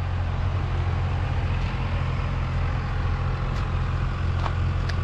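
Steady low rumble of road traffic, with a faint even hiss above it.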